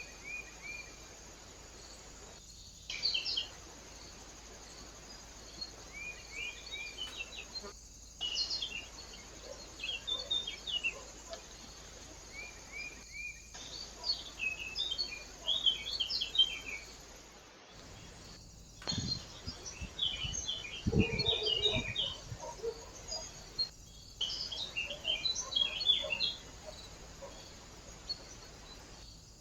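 Small birds chirping and twittering in quick short notes, with the sound breaking off briefly every few seconds. A few dull thuds about two-thirds of the way through.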